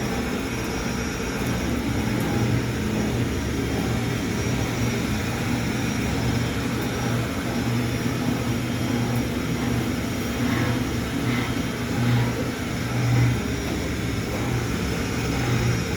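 Dumpling-making machine running with a steady motor hum.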